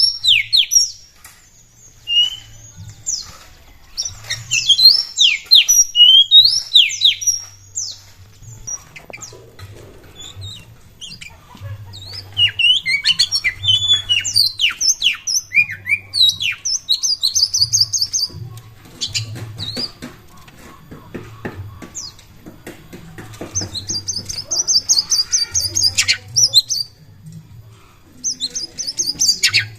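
Oriental magpie-robin (kacer) singing loudly in phrases: quick downward-sweeping whistles, broken by fast high rattling trills in the second half. A lively song of the kind played as a trigger recording to get other kacer singing.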